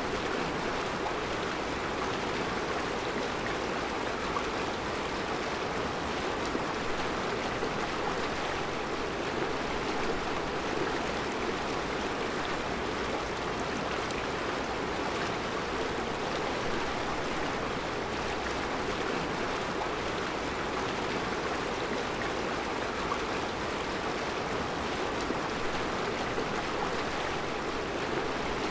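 Mountain river flowing over round rocks in a rocky bed: a steady rushing and burbling of water with no change throughout.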